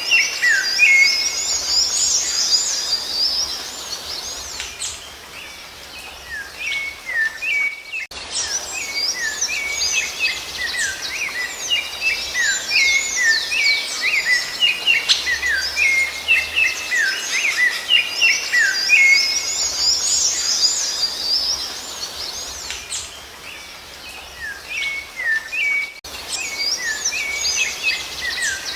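Rufous-bellied thrush (sabiá-laranjeira) singing: a dense, continuous run of quick whistled notes and slurred chirps. It grows a little quieter twice and breaks off briefly about eight seconds in and again near the end.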